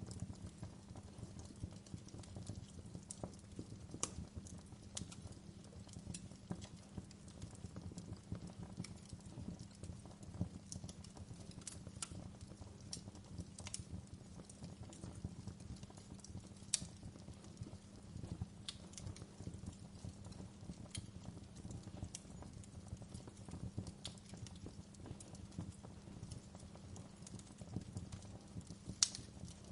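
Wood fire crackling steadily under a low rumble, with irregular sharp pops and snaps, two of them louder about seventeen seconds in and near the end.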